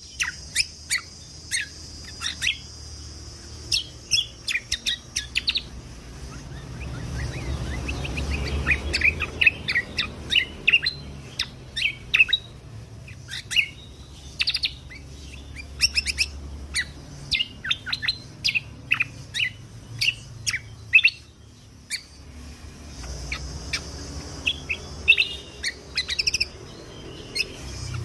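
Kecial kombok (cucak kombo) singing: rapid clusters of short, sharp, high chirps and quick notes fired off in bursts, over a steady low hum.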